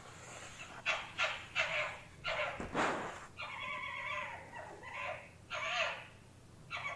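Fennec fox calling: a run of short, high yips over the first few seconds, then a few longer calls.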